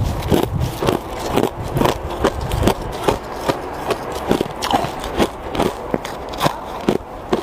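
Ice being chewed: a steady run of crunches, about two a second.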